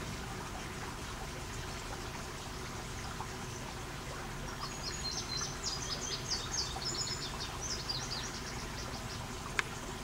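Steady background hiss, with a bird singing a quick run of high chirps from about four and a half to eight and a half seconds in, and a single sharp click near the end.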